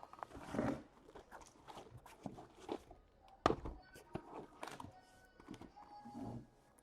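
Quiet handling noises: scattered soft taps and rustles, with one sharper knock about three and a half seconds in.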